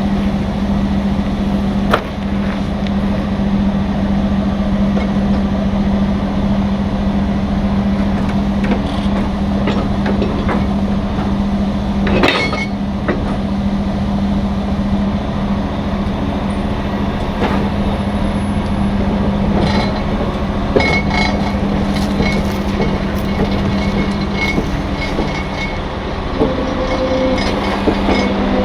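Heavy diesel truck engine idling with a steady hum, and a few short knocks scattered through it, the loudest about twelve seconds in.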